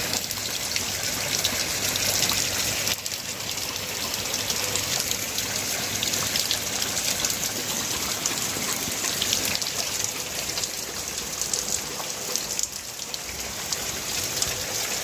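Heavy rain falling steadily: a dense hiss of countless drops striking surfaces.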